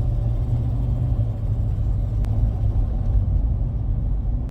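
Steady low rumble of a vehicle on the move, heard from inside the cab with the windows down. Engine, road and wind noise blend together, with one faint click about two seconds in.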